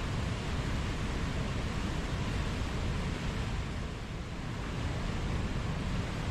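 Running water rushing steadily, an even unbroken wash of noise that eases a little about four seconds in.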